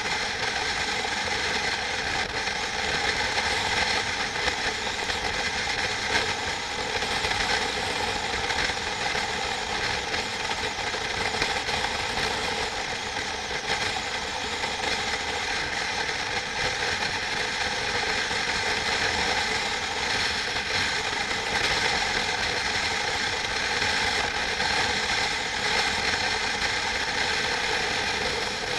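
Machinery running steadily, a dense whirring drone made of several fixed tones that stays unchanged throughout.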